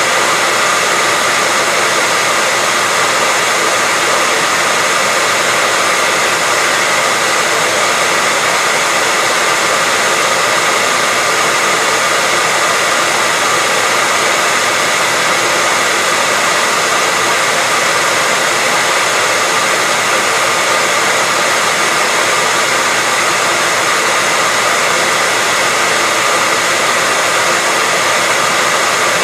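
Hair dryer running continuously: a steady, unbroken rush of blown air with a faint constant whine from the motor.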